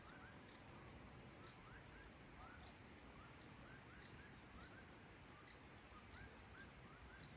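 Faint rural evening ambience: distant small animals give short rising chirps again and again, several overlapping, over a low steady hiss.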